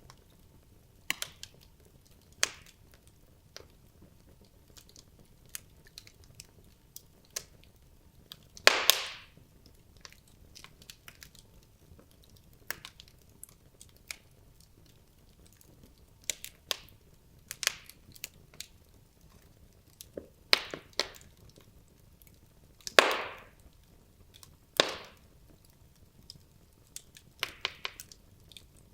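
Wood logs burning in a fireplace: scattered sharp crackles and pops. A few louder pops trail off briefly, one about nine seconds in and two more later on.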